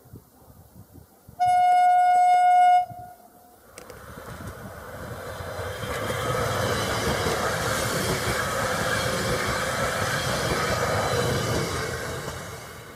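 Stadler FLIRT train sounds one blast of its horn, a single pitch about a second and a half long. Then a passing train's running noise swells, stays loud while it goes by, and fades away near the end.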